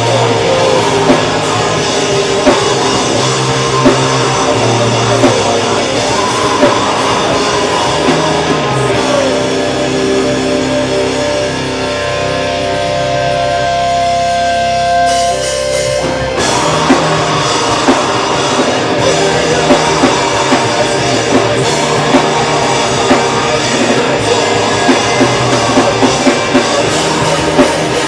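Metalcore band playing live and loud, with distorted guitars and a pounding drum kit. About nine seconds in the drums drop back and held guitar chords ring on, until the full band crashes back in after about sixteen seconds.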